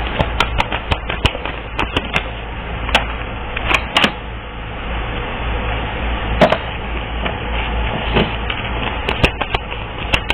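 Tarot cards being handled and shuffled: irregular sharp clicks and taps over a steady hiss and low hum.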